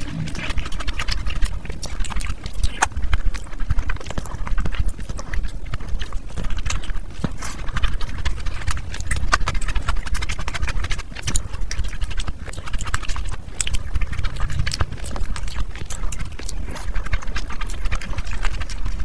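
Close-miked eating: wet chewing and lip-smacking with a dense, irregular run of sharp mouth clicks and smacks.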